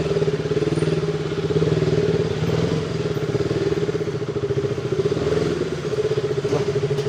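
Motorcycle engine running steadily, its exhaust note pulsing evenly at a constant pitch.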